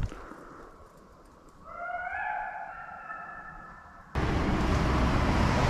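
A hound gives one long drawn-out howl lasting about two seconds. About four seconds in, the sound cuts abruptly to the steady, louder running noise of a vehicle.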